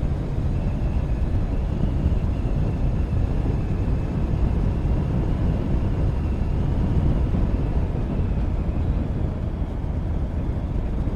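Motorcycle riding at road speed: engine running steadily under a heavy rush of wind noise on the microphone, with a faint steady high whine through most of it.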